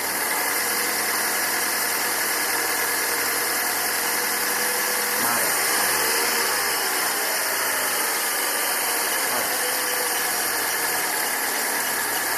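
Fiat Uno Vivace engine idling from a cold start, revved once about five seconds in and settling back to idle a few seconds later, with a steady hiss over the engine note. Fully cold is the state in which the owner hears a strange noise that goes away once the engine warms up; the tags point to a chirp suspected in the accessory belt.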